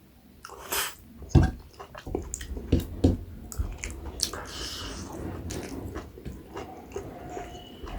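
Close-miked eating: biting and chewing a meal of maize dhido, nettle curry and chicken, with irregular sharp wet mouth clicks and a few short hissy sounds.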